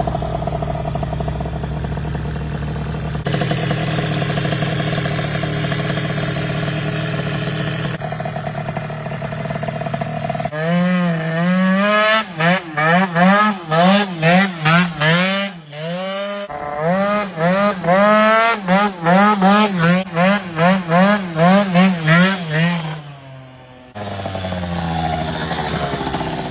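Aprilia SR50 scooter's tuned two-stroke engine idling steadily, then revved in quick repeated blips, about one or two a second, each rising and falling in pitch. It settles back to a steady idle near the end.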